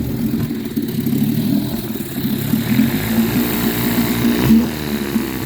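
1953 Scott-Atwater Gold Pennant 7-1/2 hp two-stroke outboard motor running at a fast idle, a little uneven with an occasional sneeze because its fuel tank is just about empty. A brief change in the running about four and a half seconds in.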